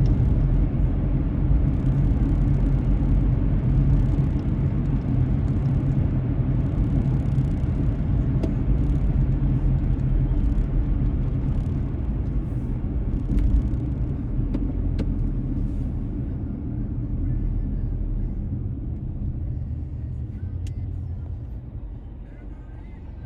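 Car on the road, a steady low rumble of engine and tyre noise that gets quieter over the last several seconds as the car slows.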